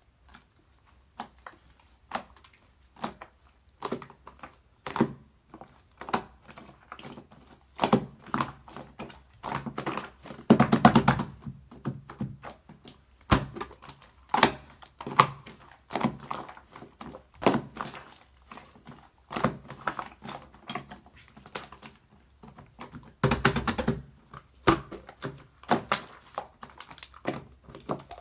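Slime being pressed, poked and squeezed by hand, making a string of short clicks and squishes about once a second. Two longer, denser bursts of squishing come about halfway through and again near the end.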